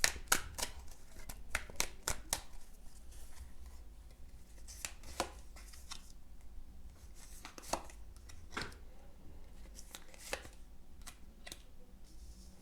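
Tarot cards being handled: about a dozen irregular soft snaps and swishes of cards against each other and the table, spread unevenly through the span, over a low steady hum.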